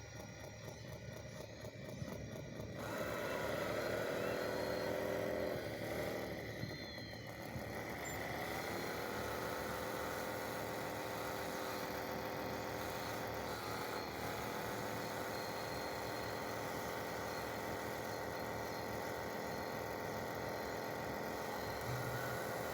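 Motor of a radio-controlled construction machine running as a pitched whine with several overtones. It comes in about three seconds in with a falling pitch, drops away briefly, falls again, then settles into a steady hum.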